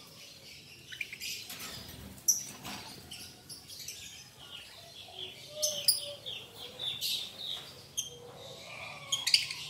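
A group of lovebirds chirping, a string of short, sharp high calls coming irregularly, with a few louder ones.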